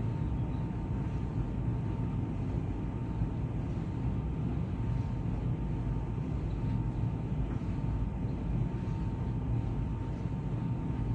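Samsung 16 kg heat pump tumble dryer running a bedding cycle with sheets inside: a steady low rumble from the turning drum, with a thin steady whine above it.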